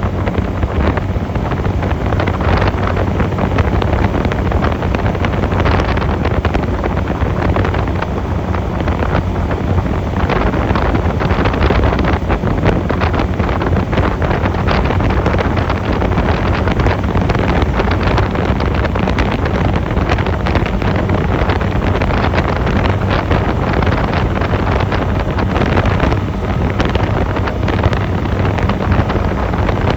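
Wind buffeting the microphone over the steady hum of a Honda 250cc motorcycle engine running at cruising speed.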